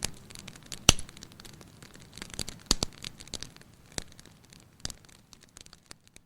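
Wood fire crackling in a fireplace: irregular sharp pops and snaps, the loudest about a second in, near three seconds and near five seconds, before the sound cuts off at the end.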